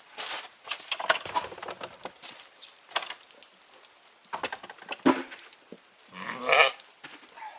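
A sheep bleats once, about six seconds in, over scattered knocks and crunches of movement around the animals.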